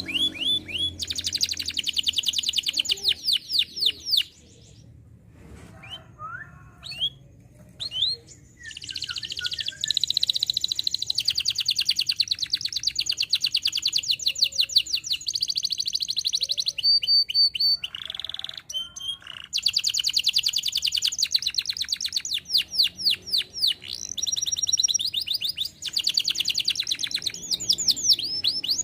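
Canary singing: long rolling trills of fast repeated notes, broken by a quieter lull of scattered notes about a third of the way through and a short break later.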